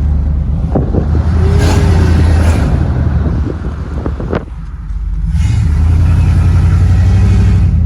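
Pickup truck engine and exhaust droning loudly, heard from inside the cab while driving. It eases off briefly about halfway through, then builds back up.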